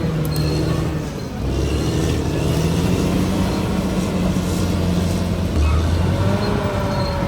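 Crawler bulldozer working: its diesel engine runs steadily under load and the steel tracks squeal, with wavering squealing tones near the start and again near the end. The engine eases off briefly about a second in.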